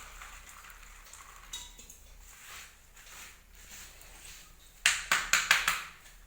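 Serving utensils clinking against dishes: a quick run of about five sharp clinks near the end, after a few quiet seconds.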